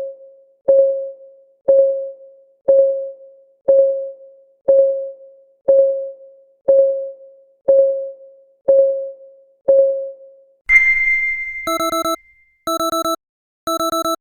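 Electronic countdown-timer tick: a short pitched tock once a second, about ten times. At zero a single bright chime rings out, then an alarm beeps in three quick bursts of rapid electronic beeps.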